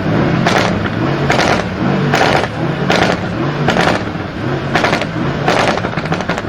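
A performance car's engine is revved in repeated blips, about eight in quick succession. Each rev rises and drops back with a burst of exhaust noise.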